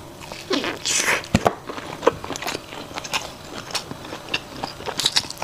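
Close-miked biting and chewing of food from a grilled skewer: crisp crackles and wet mouth sounds, with a louder bite about a second in.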